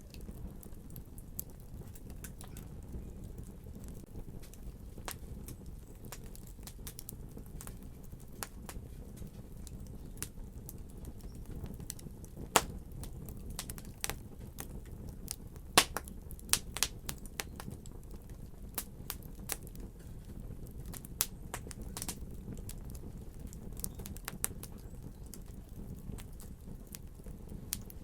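Fire crackling: irregular sharp pops and snaps over a low steady rumble, with a few louder pops about halfway through.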